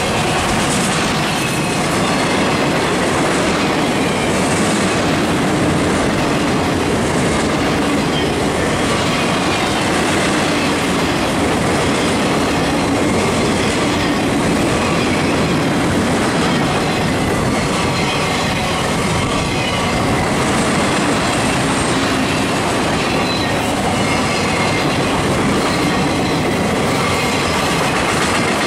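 Freight train flatcars rolling past on steel wheels: a steady, loud rumble and clatter of wheels over the rail, with faint high wheel squeal running through it.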